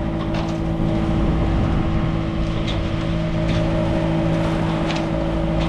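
A sailboat's auxiliary engine running steadily under way, a constant droning hum over a low rushing noise.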